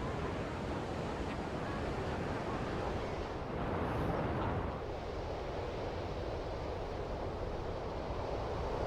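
Ocean surf washing in, a steady rush with one wave swelling louder about three and a half seconds in.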